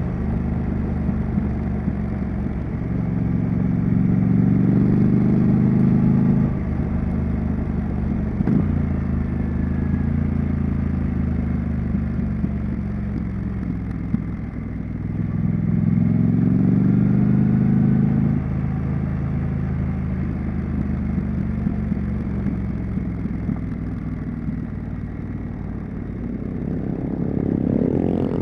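Triumph Street Scrambler's 900 cc parallel-twin engine and exhaust under way, running steadily with two pulls up through the revs, a few seconds in and again past the middle, each ending in a sudden drop in revs. A sharp click about eight and a half seconds in, and the revs climb again near the end.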